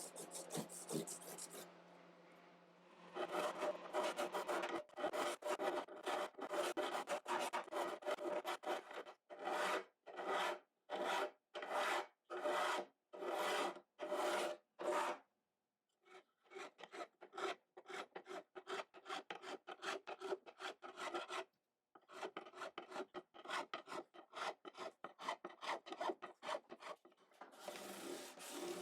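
Hand filing or sanding on wood in rhythmic back-and-forth scraping strokes. The strokes start about three seconds in, run at roughly two a second in the middle, and come in runs with a couple of brief pauses.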